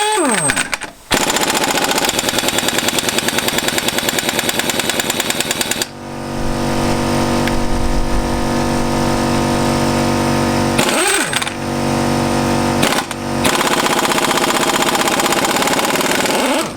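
Impact gun hammering rapidly on a Fiat 500 crankshaft hollow bolt without shifting it, because the gun is set to run the wrong way. About six seconds in, the hammering gives way to a steady machine drone with a low hum, broken off briefly twice.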